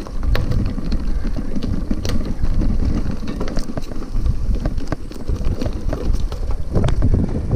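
Hybrid bicycle riding over a rough dirt trail: a steady low rumble of tyres and wind on the microphone, with irregular sharp clicks and rattles from the bike jolting over the bumps.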